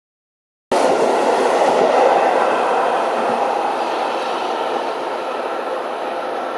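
Seibu 6000 series electric train running, with a loud, steady rumble of wheels and running gear that cuts in abruptly under a second in and slowly eases off.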